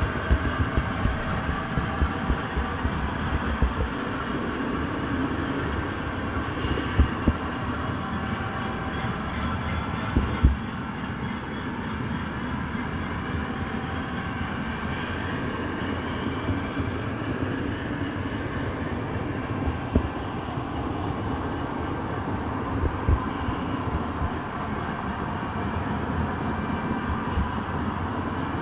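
Train running on the rails: a steady rumble and rattle with scattered low knocks, a few louder than the rest.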